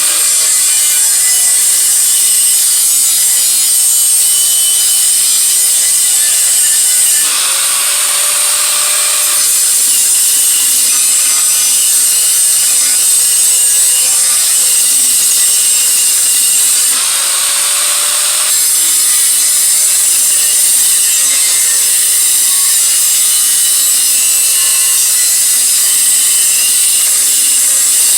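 Power grinder grinding on a steel exhaust head pipe, a steady harsh grinding hiss over the motor's whine. Twice, about a quarter of the way in and again past halfway, the sound changes for a second or two and the whine rises, as the tool eases off the metal and then bears down again.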